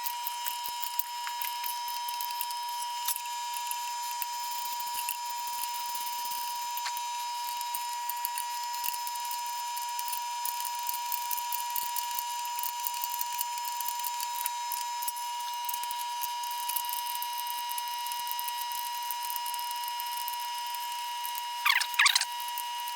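A power tool cutting through a plate, giving a steady high whine with a constant crackle of ticks. A couple of louder scraping sounds come near the end.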